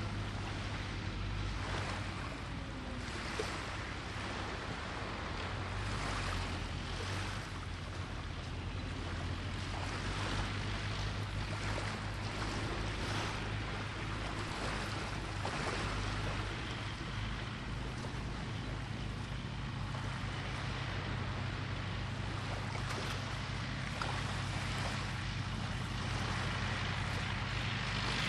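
Sea surf washing in on the beach in strong wind, the waves swelling and falling every second or two, with wind rumbling on the microphone throughout.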